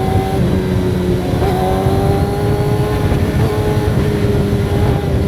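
Sport motorcycle's engine running hard at speed, its note held high and rising slowly, with small dips about half a second and a second and a half in.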